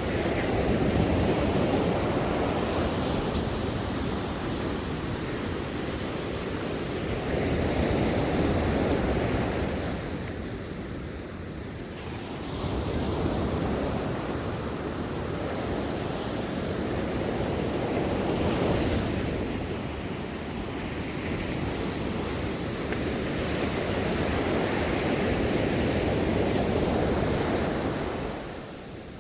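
Ocean waves breaking and washing on a shore, a steady rushing surf that swells and ebbs every few seconds.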